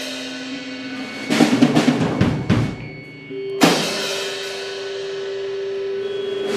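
Live rock band with a held note, then a drum-kit fill about a second in, ending on a cymbal crash with a new note held and ringing on afterwards.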